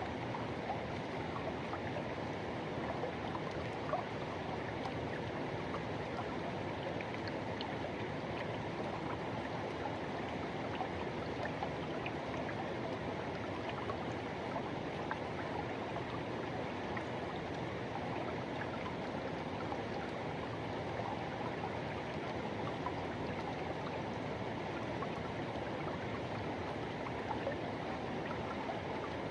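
Forest river rushing steadily over rocks, a continuous full rush of flowing water.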